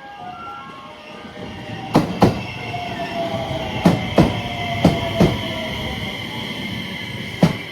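An electric train rolling through the station. Its wheels knock over the rail joints in quick pairs, one pair for each bogie, with a faint whine that slowly falls in pitch.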